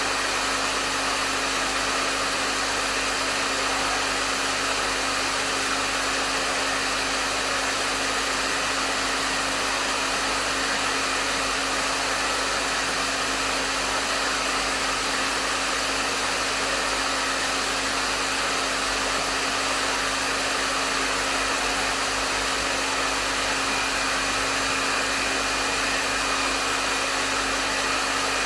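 Hair dryer running steadily: an even rush of blown air over a constant motor hum, with no changes.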